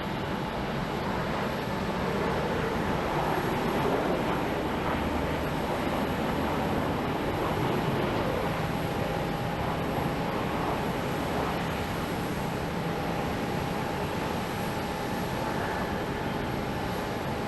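Jet airliner engines running at an airport, a steady rush of noise with a thin whine, swelling slightly a few seconds in.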